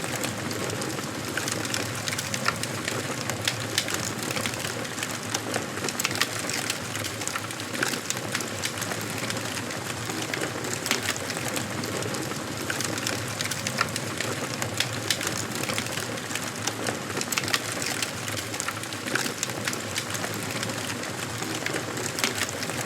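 Wood fire burning in a fireplace: a steady hiss with frequent sharp, irregular crackles and pops of the burning wood.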